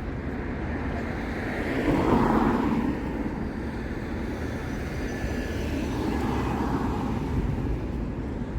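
City street traffic with vehicles passing, the loudest going by about two seconds in and another around six seconds. A constant low rumble sits underneath, typical of wind on the microphone.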